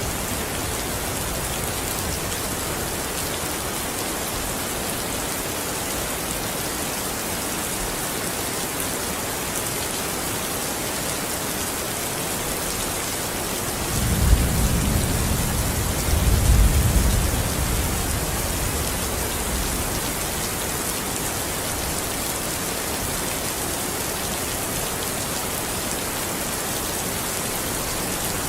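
Steady rain falling, an even hiss of drops. About halfway through, a low rumble swells for a few seconds and fades.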